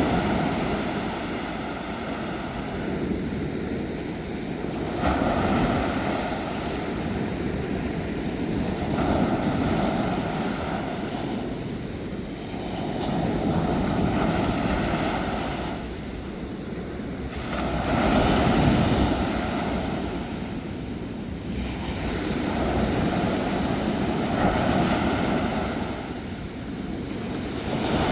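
Sea waves breaking and washing in, the surf swelling and ebbing about every four to five seconds.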